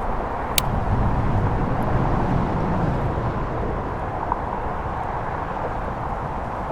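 Strong wind buffeting the microphone: a steady low rumble and rush.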